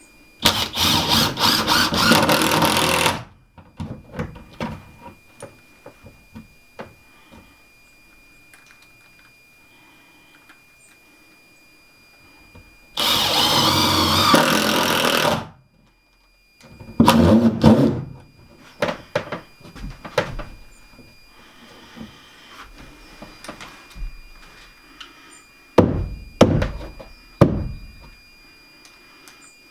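A power saw cutting through a timber beam in two steady cuts of about three seconds each, starting and stopping abruptly. Between and after the cuts come scattered knocks and a few heavier thuds from handling the wood.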